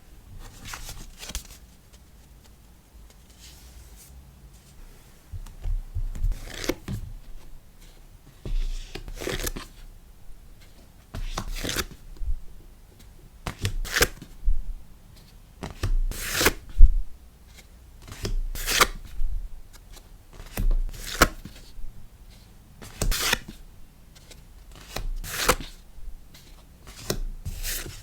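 Order-packing sounds: sticker packaging being handled, a short rustle about every two seconds with a soft tap under each, starting about five seconds in after quieter handling.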